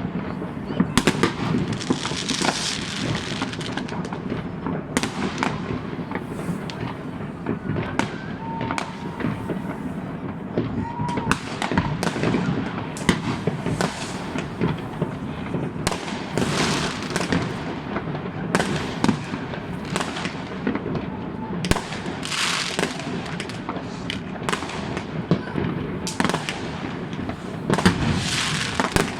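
Many fireworks going off at once across a city neighbourhood: a dense, unbroken mix of sharp bangs and low booms. Several swells of high crackling stand out, about 2 seconds in, near the middle, and near the end.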